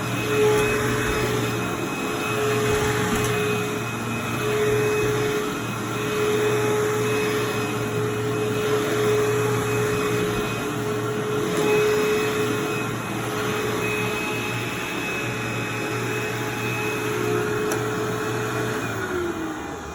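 Vacuum cleaner running steadily, its loudness swelling and easing every few seconds. It is switched off near the end, and the motor's hum slides down in pitch as it winds down.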